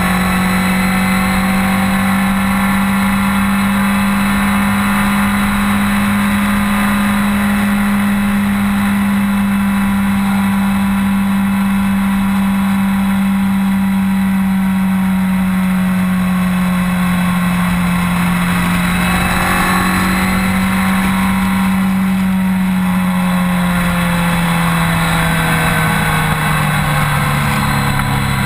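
BMW K1200R's inline four-cylinder engine running at a steady cruise, with wind rushing past. The engine note holds level, then drops a little near the end as the throttle eases.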